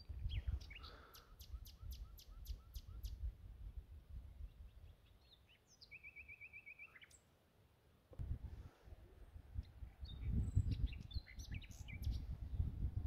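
Wild birds calling: a fast run of sharp high chirps, a short rapid trill midway, and scattered chirps near the end, over an uneven low rumble that fades out in the middle and returns.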